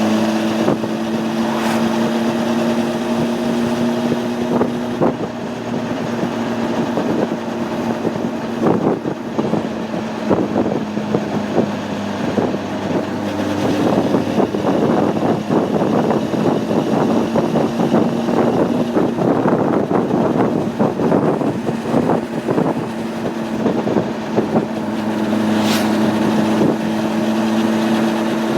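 Honda CB600F Hornet's inline-four engine running at steady cruising revs, a smooth even hum with wind rushing over the microphone. Through the middle stretch the engine tone is buried under rougher, gusting noise, and the steady hum returns near the end with a brief sharp click.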